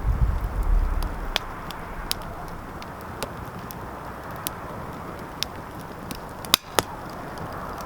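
Wood fire in a fireplace crackling: a steady hiss of burning with scattered sharp pops, two of the loudest close together near the end.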